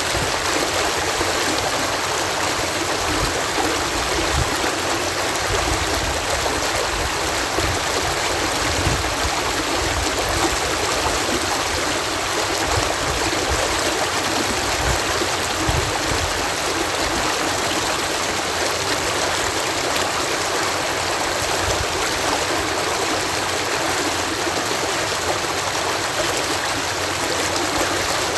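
Water cascading over a canal lock's sluice, a steady rushing with an irregular low rumble underneath.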